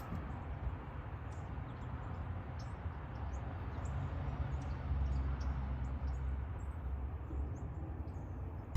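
Small birds chirping, many short high calls scattered throughout, over a low rumble that swells and eases around the middle.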